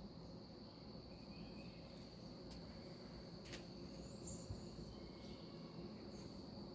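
Faint, steady chorus of crickets trilling on one high pitch. Two sharp clicks about a second apart come near the middle.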